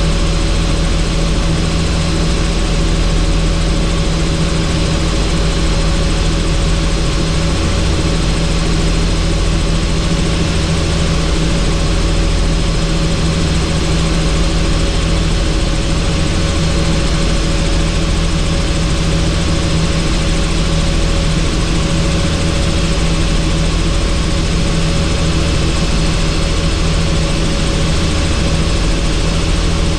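Helicopter in steady flight: an even rush of rotor and turbine noise with a deep low throb and a few held steady tones over it.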